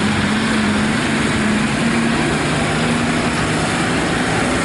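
A 1954 Allis-Chalmers WD-45 tractor's four-cylinder engine running steadily, its pitch wavering a little.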